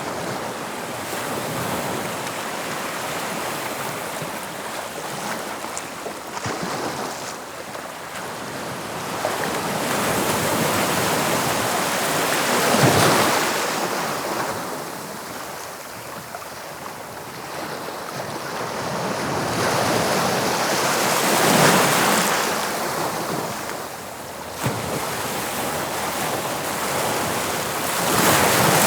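Waves of the English Channel breaking on the shore: a steady wash of surf that swells to a crash about every eight seconds and then draws back.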